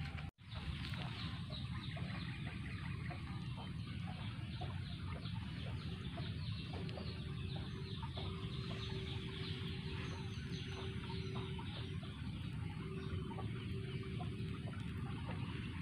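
Birds calling in many short, quick notes over a steady low rumble, with a faint steady hum joining about six seconds in.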